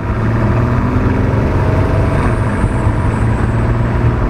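Bentley Continental GT Speed's twin-turbo W12 engine running at a steady cruise, a deep, even engine note that holds nearly the same pitch throughout.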